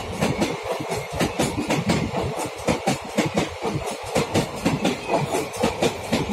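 Passenger train coaches passing at speed: their wheels clatter over the rail joints in a fast, even rhythm over a steady rushing noise.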